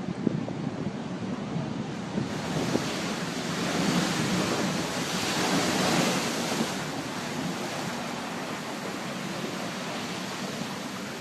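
Sea surf breaking along the seafront, one wave surging up loudly in the middle and dying back into a steady wash of surf, with wind.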